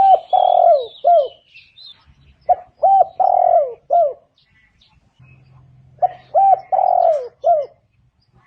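Spotted dove cooing, a repeated call phrase about every three seconds: two short coos, a long drawn coo that falls in pitch at its end, then a short final coo. Faint high chirping from another small bird near the start.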